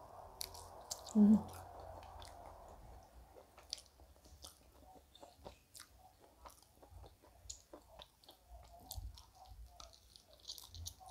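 A person chewing a mouthful of rice and meat close to a clip-on microphone: soft, wet mouth clicks scattered throughout. A brief hummed sound stands out about a second in.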